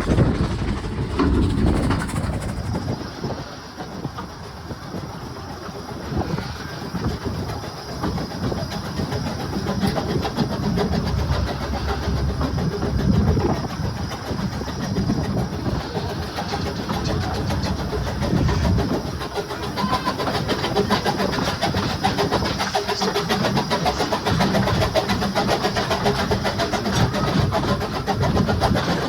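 Narrow-gauge passenger carriage running along the line behind the steam locomotive Maid Marion, heard from inside: a steady rumble and clatter of wheels on the track.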